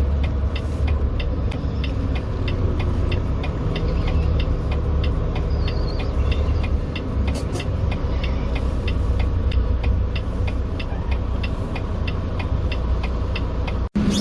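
Semi truck's diesel engine running, heard from inside the cab, with a fast, even ticking about three times a second over the steady low rumble.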